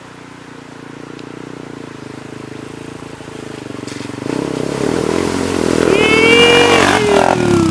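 Motorcycle engine running and drawing closer, getting steadily louder with a clear step up about four seconds in. Near the end a brief high, bending cry sounds over the engine.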